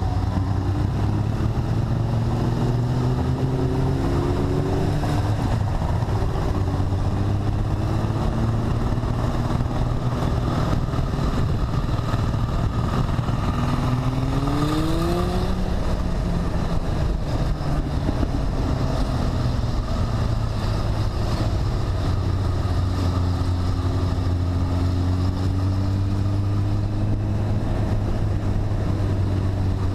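Motorcycle engine running steadily while riding, its pitch rising and falling with the throttle, with a clear climb in pitch about halfway through as it accelerates.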